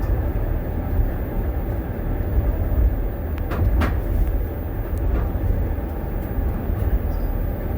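Steady low rumble of the Wolmi Sea Train's car running along its elevated track, heard from inside the car, with a couple of brief clicks about three and a half seconds in.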